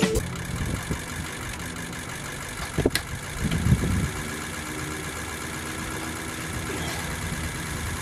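A steady mechanical hum like an engine running, with a few short clunks about three to four seconds in.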